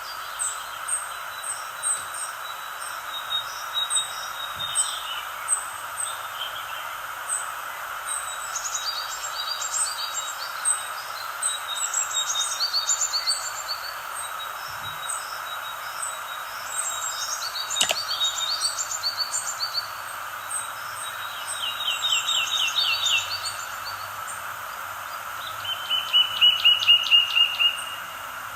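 Several songbirds chirping and singing in short, high calls over a steady background hiss, with a fast, loud trill near the end.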